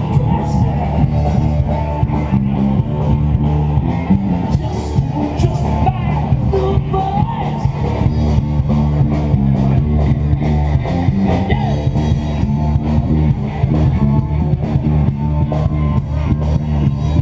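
Live rock band playing a heavy metal song, with electric guitars and a strong steady bass line.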